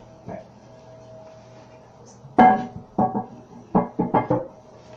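Porcelain lid of a 1995 Vitromex Marathon toilet tank being set back on the tank: one sharp ringing clink about halfway through, then several lighter clinks and knocks as it is settled into place.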